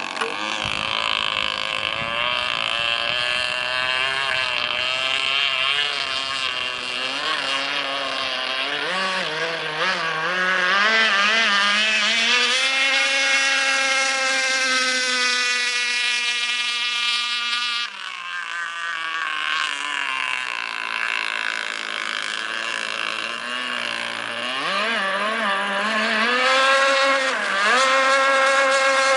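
Radio-controlled model boat's new Arrowsharc petrol engine running while being broken in, its note rising and falling with the throttle. About halfway through it holds a high steady pitch for a few seconds, then drops suddenly, and it climbs again near the end.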